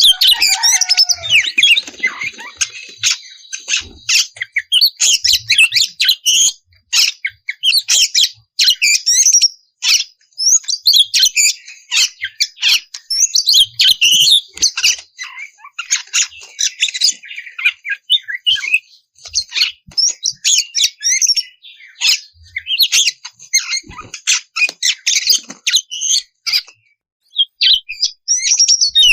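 Oriental magpie-robin (kacer) singing a loud, unbroken "ngeplong" song: rapid varied whistles and harsh chattering notes with only brief pauses, the full-voiced song used to provoke other magpie-robins into singing.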